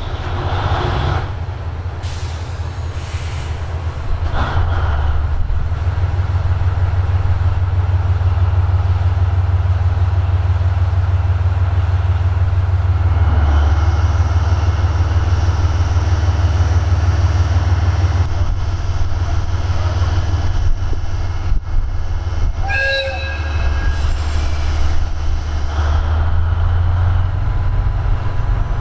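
DF200 diesel-electric locomotive's engine running just after a restart, with a steady low throb that grows louder about four seconds in and then holds. A brief high tone sounds about 23 seconds in.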